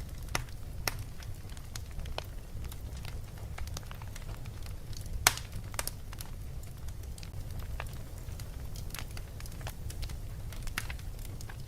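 Wood fire crackling in a fireplace: irregular sharp pops and snaps, one louder pop about five seconds in, over a steady low rumble.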